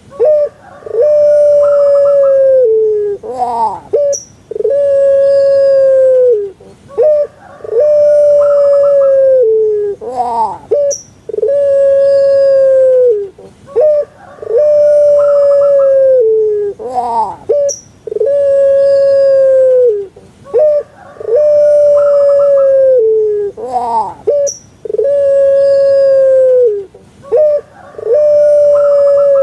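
Puter pelung (Barbary dove, Streptopelia risoria) cooing over and over. Each call is a few short clipped notes followed by one long held coo that drops in pitch at the end, and the calls repeat about every three and a half seconds.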